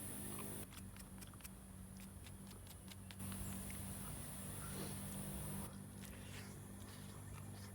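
Insects chirring in a high, steady drone that cuts out twice, with a quick run of small clicks and taps about a second in.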